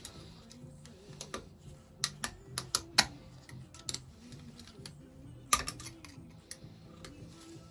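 Small hard metal clicks and taps as a steel pick and small hand tools work at the brass fuel and oil pump of a Lister Q Type stationary engine, picking at its seized valve parts. The taps come irregularly in short clusters, the sharpest about three seconds in and again around five and a half seconds.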